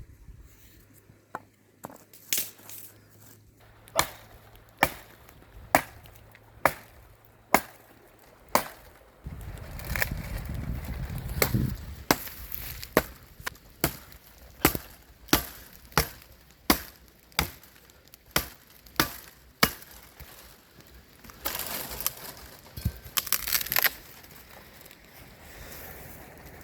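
Regular chopping strokes on wood, a little more than one a second, about two dozen in all. A stretch of rustling, rumbling noise comes in the middle, and a short hiss comes near the end.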